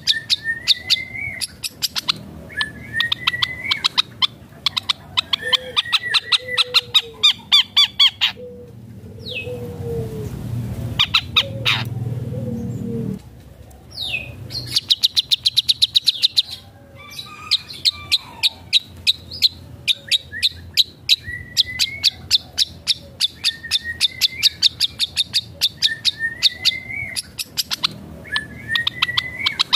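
Long-tailed shrike (cendet) singing fast, chattering strings of sharp repeated notes, broken by short rising whistles, in a song full of phrases mimicked from other birds. A stretch of low rumbling noise runs near the middle.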